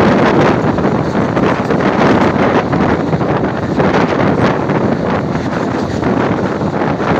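Steady noise of a passenger train running, with heavy wind on the microphone.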